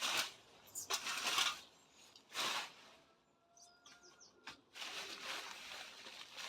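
A run of rustling swishes, four in all, the last one longer, with a single sharp click about four and a half seconds in.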